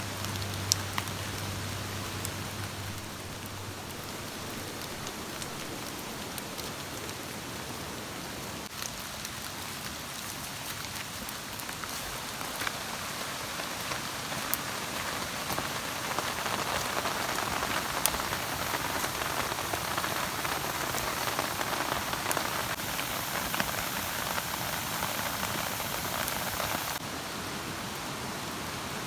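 Steady rain falling, with scattered louder drops ticking. It grows heavier about halfway through, then eases suddenly near the end.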